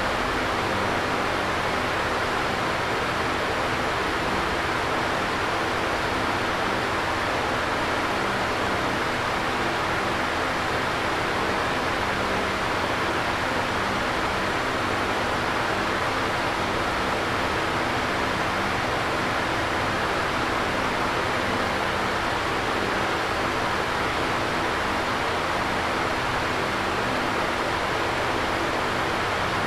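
Electric fan running steadily: an even whooshing hiss of moving air with a faint low hum underneath.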